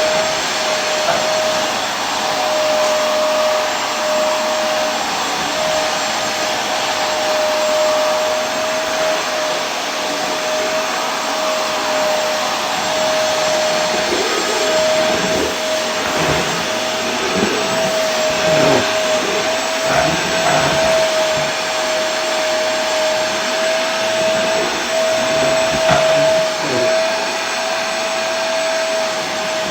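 Vacuum cleaner motor running steadily: a constant whine over a broad rushing hiss, wavering slightly in the second half.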